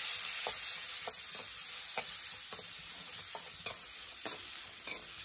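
Chopped onion and tomato sizzling in hot oil in a metal kadai, with a metal spoon scraping and clinking against the pan at irregular intervals as they are stirred and sautéed.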